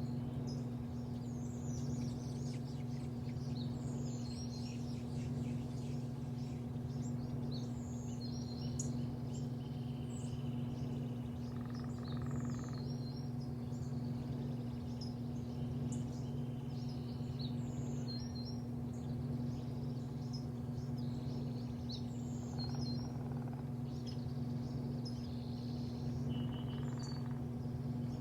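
Small birds chirping on and off over a steady low mechanical hum.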